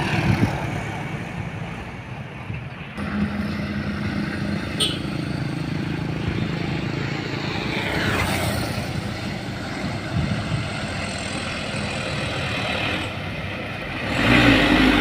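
Heavy truck's diesel engine running steadily under load as it climbs a steep hill, growing louder about three seconds in.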